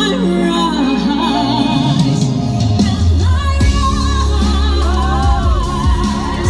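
A woman singing a pop ballad live over a backing track with a steady bass, her voice sliding through runs and wavering on held notes.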